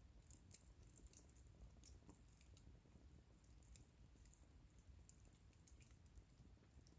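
Faint crackling of a wood bonfire: small sharp pops and ticks at irregular intervals, several a second, over a low background rumble.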